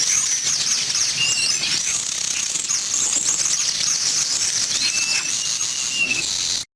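A flock of weaver birds chattering together: many overlapping high chirps and quick sweeping calls, with a few longer thin whistles. It cuts off suddenly near the end.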